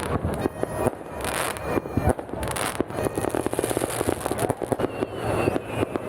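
Fireworks going off: rapid crackling and popping, with heavier bangs about one and two seconds in.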